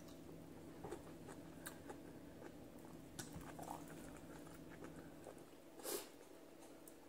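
Faint chewing and mouth sounds of someone eating rice and sautéed mustard greens by hand, with small scattered clicks and a short breath about six seconds in.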